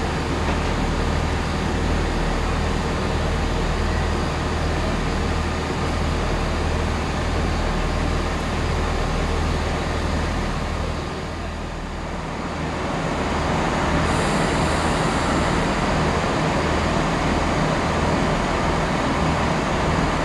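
Diesel train engine droning steadily at a station platform, a low even hum. About two-thirds of the way through, a louder rushing noise builds over it, as of a train on the move.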